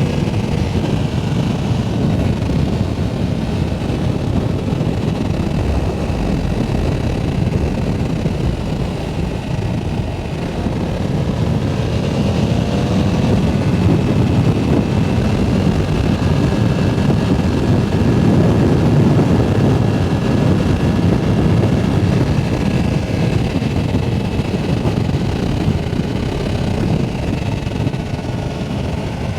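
Yamaha R7's 689 cc parallel-twin engine running under way, mixed with wind rush on the microphone. The engine note climbs a little and grows louder through the middle, then eases back near the end.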